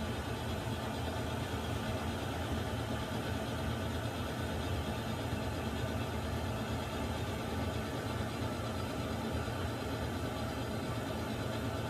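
Water heater running: a steady, unchanging low hum under an even hiss.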